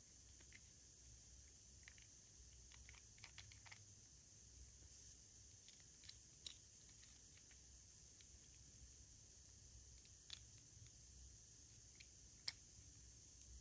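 Near silence with a faint steady hiss and scattered small clicks and crinkles, the loudest a few sharp ticks about six seconds in and near the end.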